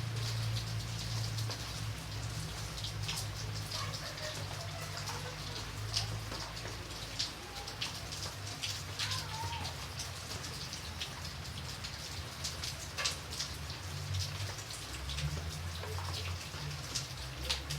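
Rain falling steadily, with single drops striking close by as sharp, irregular taps over the even patter, and a low rumble underneath.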